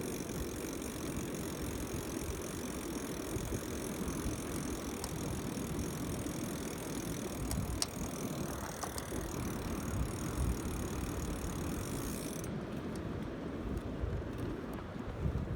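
A BMX bike being ridden, with wind rumbling on the microphone and the bike's rolling noise. A steady high hiss runs alongside and cuts off suddenly about twelve seconds in.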